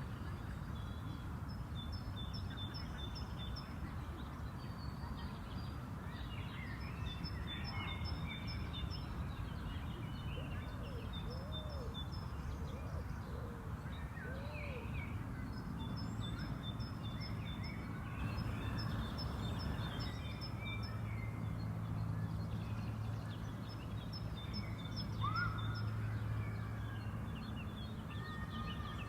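Several birds singing and calling over a steady low background rumble, with short trilled chirp phrases repeating every few seconds.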